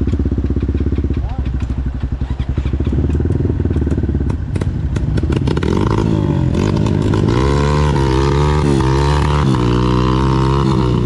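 Dirt bike engine pulling at low revs with clatter from the bike, then revving up and down repeatedly from about halfway through.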